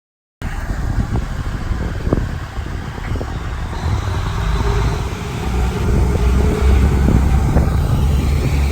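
Four-car KiHa 110 series diesel railcar set approaching, its diesel engines and wheels making a low rumble that grows steadily louder.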